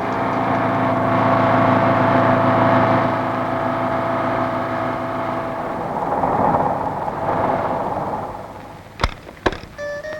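A vehicle engine running steadily, fading away about eight seconds in, followed by two sharp knocks about half a second apart.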